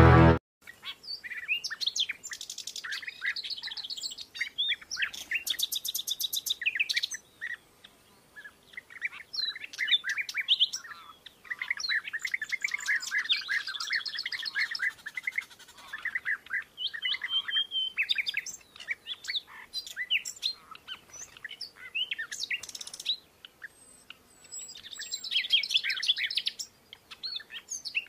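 Birds chirping and calling: many short chirps and fast trills, coming in bursts with brief pauses between them.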